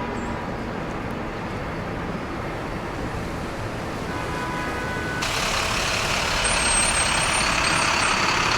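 City traffic rumbling at street level. About five seconds in, a louder, steady rushing hiss of falling water cuts in suddenly: the Paley Park waterfall, a man-made water wall.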